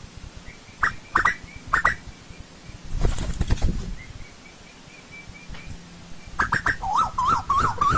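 Asian koel calling: three short falling notes about a second in, then a fast run of rising-and-falling notes starting near the end. A brief rushing noise comes around three seconds in.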